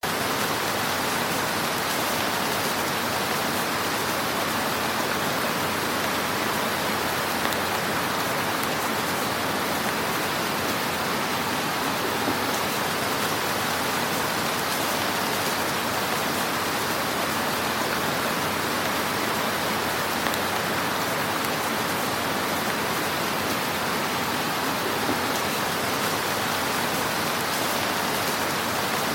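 Crackling fireplace ambience: a steady, even hiss, much like rain, with faint fine crackles on top.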